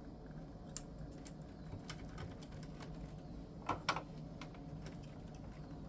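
Scattered light clicks and taps of small objects being handled, with two louder clicks close together about two thirds of the way through, over a faint steady hum.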